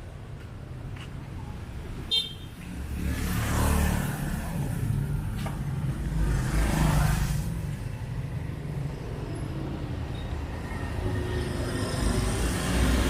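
Street traffic: cars and other vehicles driving past close by with a steady engine rumble, two vehicles swelling up and fading as they pass, and a short, high horn toot about two seconds in.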